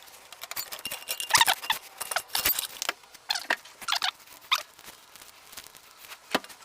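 Handled metal tools or parts clinking and rattling in an irregular run of sharp clicks, some of them ringing briefly. They are busiest around the first few seconds and end with one sharp clink near the end.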